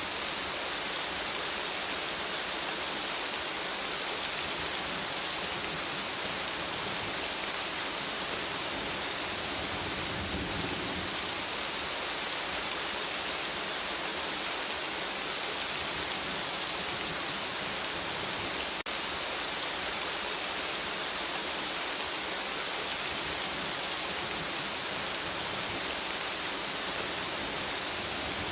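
Steady rain falling, a dense even hiss, with one brief click about two-thirds of the way through.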